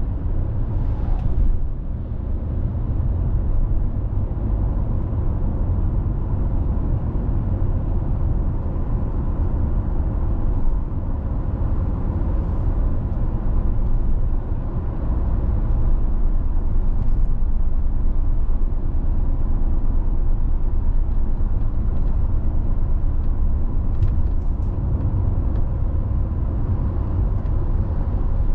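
Car driving on a country road: a steady low rumble of tyres on the road surface mixed with engine noise, swelling and easing slightly with speed.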